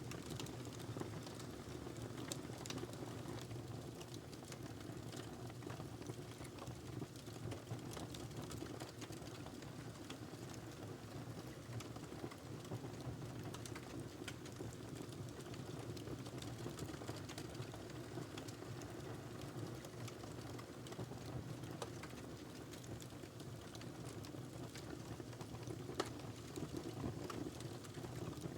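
Wood logs burning in a fireplace: a steady low rush of flame with frequent small crackles and pops, and one sharper pop near the end.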